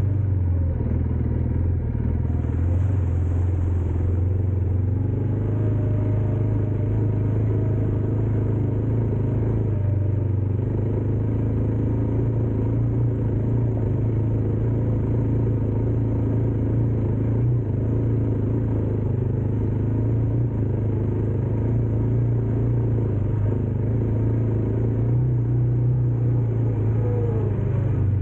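Motor vehicle engine running steadily at an even speed, a constant low drone with road noise over it.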